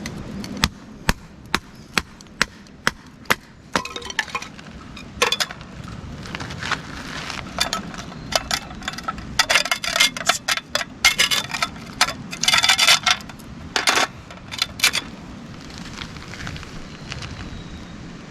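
A series of sharp clinks and knocks: first a regular run of single strikes about two a second, then denser bursts of rattling clatter in the middle.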